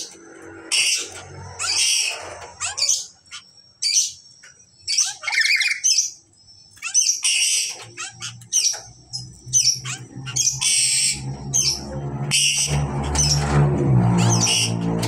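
Black-capped lories giving repeated short, harsh squawks and screeches. A low steady hum comes in about halfway and grows louder toward the end.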